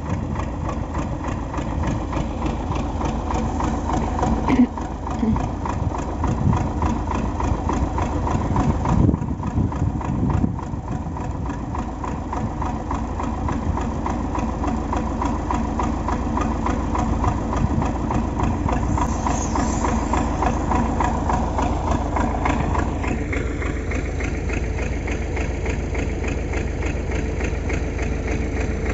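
MTZ (Belarus) tractor's diesel engine idling steadily, its note shifting slightly near the end.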